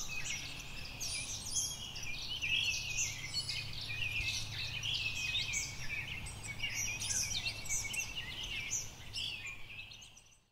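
Several songbirds chirping and calling busily over a low, steady outdoor hum, fading out in the last second.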